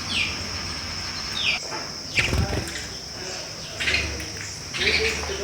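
Sparrows chirping in short, falling calls over a steady high-pitched cricket trill, with a soft thump about two seconds in.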